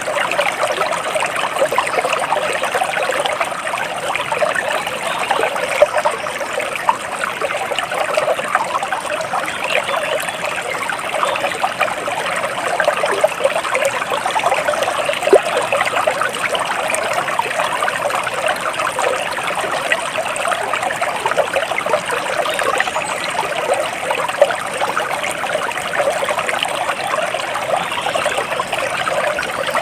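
Water of a small stream flowing steadily.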